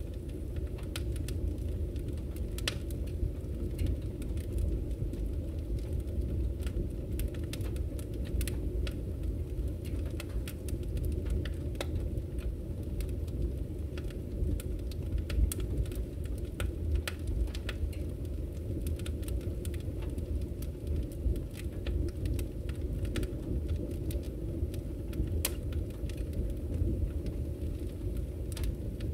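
Wood fire burning in a fireplace: a steady low rumble of the flames with frequent irregular crackles and small pops from the burning logs.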